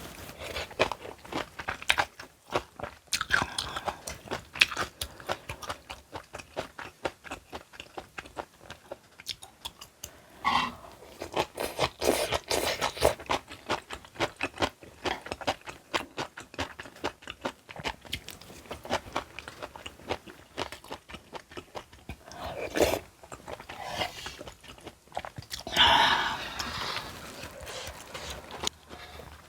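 A person chewing and crunching food, a dense run of crisp crackles and smacks, with several louder bites along the way.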